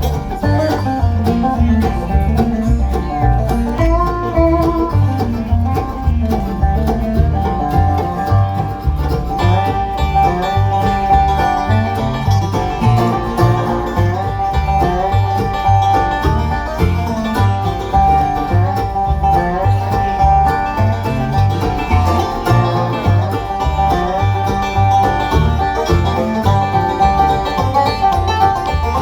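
Bluegrass band playing an instrumental with five-string banjo and guitar over a steady bass beat.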